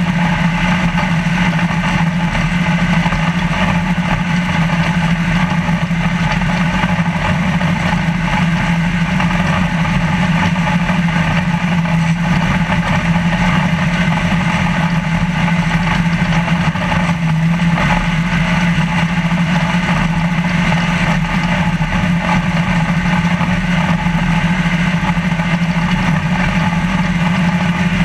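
Trophy Lite off-road race truck's engine running hard at a steady speed, heard from inside the cab, with a constant drone and no gear changes or lifts.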